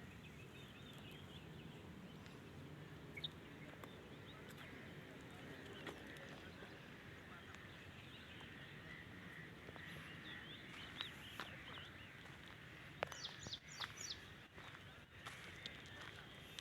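Birds chirping faintly over steady outdoor background noise, with a cluster of sharper, quick downward-sweeping calls near the end.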